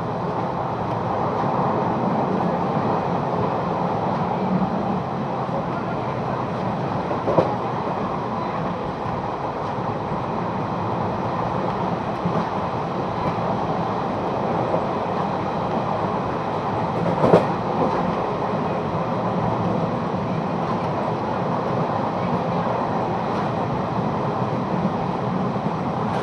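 A train running along the track with a steady rumble, and two sharp knocks, about a third of the way in and again past the middle.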